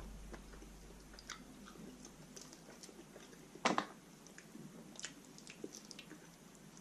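Close-up chewing and biting on a roast chicken wing: soft wet smacks and clicks of the mouth, with one louder sharp sound a little under four seconds in.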